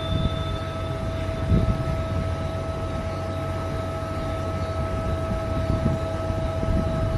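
Desktop filament extruder and winding machine running: a steady motor whine over a low rumble, with a soft knock about one and a half seconds in.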